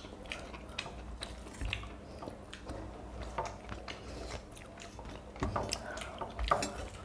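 Close-up eating sounds of water-soaked panta bhat rice eaten by hand: wet chewing and mouth smacks, with scattered small clicks as fingers work the food on steel plates.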